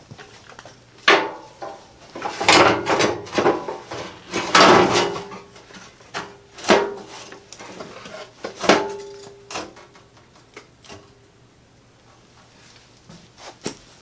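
Metal parts being handled and fitted on a ride-on mower body: a string of sudden clanks and knocks, some with a short ringing tone, busiest in the first half and dying away near the end.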